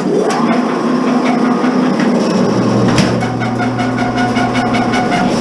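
Electric wire stripping machine starting abruptly and running, its motor humming with a busy clatter as BX cable is fed through the rollers; a deeper hum joins about halfway through as the machine takes the load.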